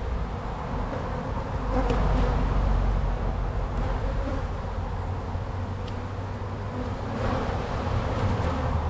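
Honeybees buzzing around an opened hive: a steady, dense buzz of many bees, with a low rumble rising briefly about two seconds in.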